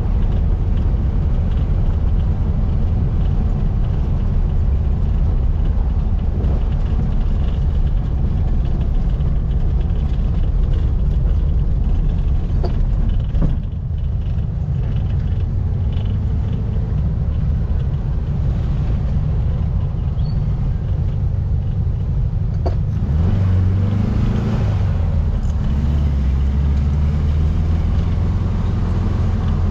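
1700cc air-cooled VW flat-four engine of a Baja Bug running under load on the road. It dips briefly about halfway through, then rises in pitch about three-quarters of the way through.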